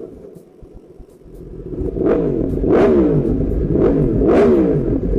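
Yamaha R1M's crossplane inline-four running through a titanium aftermarket exhaust. It swells up about a second and a half in, then revs up and down over and over, roughly every one and a half to two seconds.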